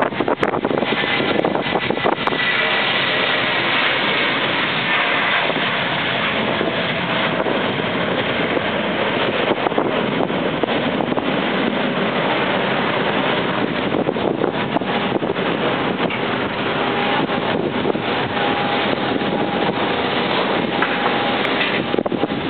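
Airbus A320 jet engines at takeoff power, a steady roar with faint whining tones running through it, mixed with wind buffeting the microphone in gusts.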